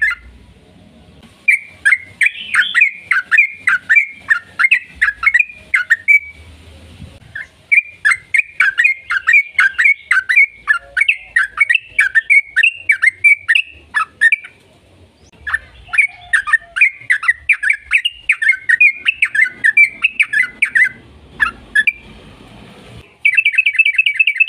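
Yellow-vented bulbul (trucukan) singing: long phrases of rapid, bubbling notes several seconds at a time, with short pauses between. Near the end it breaks into a fast, even trill.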